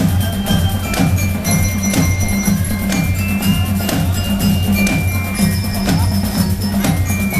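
Marching showband playing a steady beat: drums pounding about twice a second under sharp percussion strikes, with high bell-like notes held over them.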